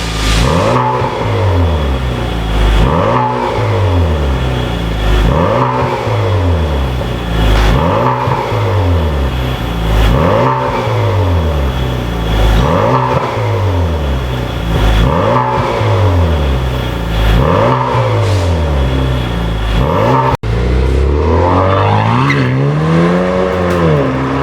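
Chevrolet Malibu's 2.0-litre turbocharged four-cylinder, breathing through an aftermarket dual valved exhaust, revved over and over: one rev about every two and a half seconds. After a brief cut about twenty seconds in, there is one slower rev.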